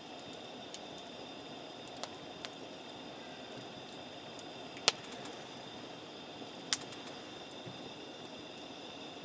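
Wood campfire crackling quietly, with a handful of sharp pops; the two loudest come about five and seven seconds in.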